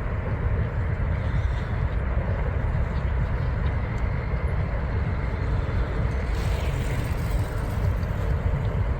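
Outdoor city street ambience: a steady low rumble with a hiss above it, and a brief swell of higher hiss about six seconds in.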